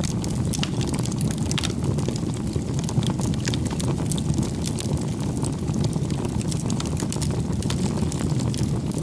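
Wood fire burning: a steady low rumble with frequent sharp crackles and pops.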